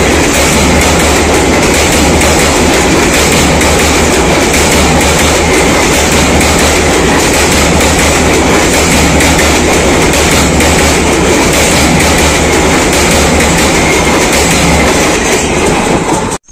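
Passenger train coaches passing close by over a steel girder railway bridge: a loud, steady rumble and clatter of wheels on the rails, which cuts off suddenly near the end.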